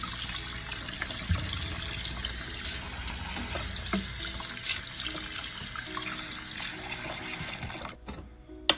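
Kitchen tap running with water splashing over the dishwasher filter and basket as they are rinsed in the sink. The water stops about eight seconds in, and a single sharp click follows near the end.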